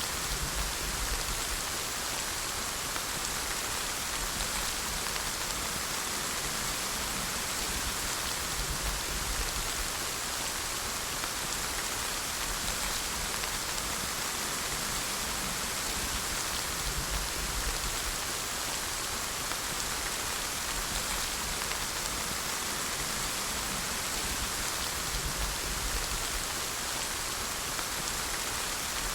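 Steady rain falling, an even hiss of many drops hitting surfaces.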